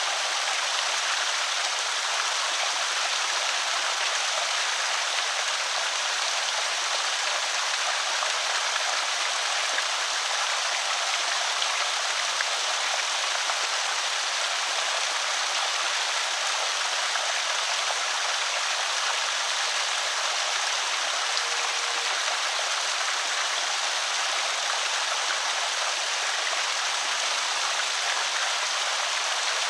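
Water pouring steadily over a small creek spillway, an even splashing rush with no breaks.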